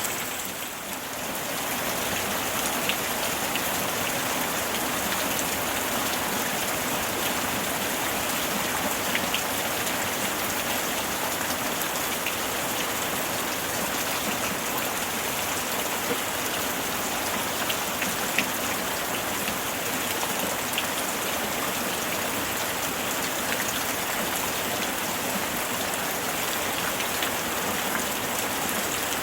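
Steady summer rain falling, a dense even hiss with scattered individual drop ticks, dipping briefly about a second in.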